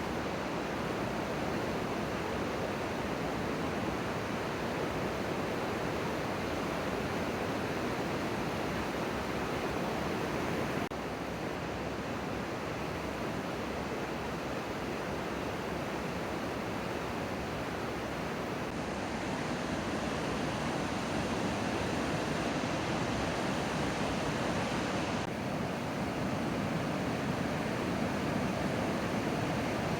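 Steady rushing outdoor noise, like surf, running water or wind, with no distinct events. It shifts abruptly about 11 and 25 seconds in, where recordings are joined.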